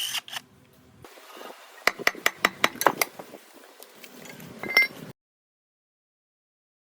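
Hand tools clinking and tapping on metal engine parts during disassembly: a quick run of sharp metallic clinks, a single ringing clink, then the sound cuts off to silence about five seconds in.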